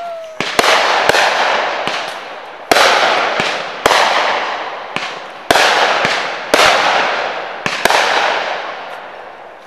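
Aerial fireworks shells launching and bursting in a string of about ten sharp bangs, irregularly spaced. Each bang trails off over a second or so before the next.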